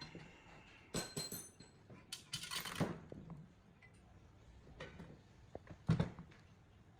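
Metal tools and parts clinking and knocking on a workbench: a few sharp clinks with a short metallic ring about a second in, a brief scraping rasp, and a heavier knock near the end.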